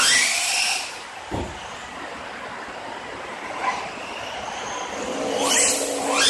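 Radio-controlled car's motor revving, with a steep rising whine near the end. There is a single dull thump about a second and a half in.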